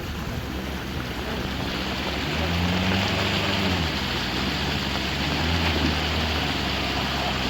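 A vehicle engine revs up twice, each time for a second or so, over a steady hiss of rain and running water.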